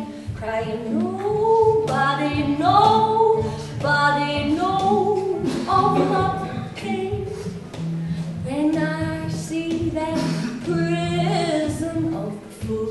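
Music: a voice singing long, wavering notes without clear words over steady low held notes.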